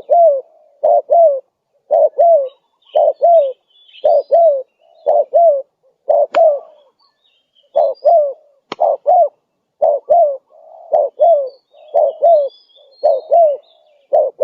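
Spotted dove cooing over and over in short phrases of two or three low coos, a brief gap between phrases. Faint high chirps of small birds sit in the background, and two sharp clicks come about six and nine seconds in.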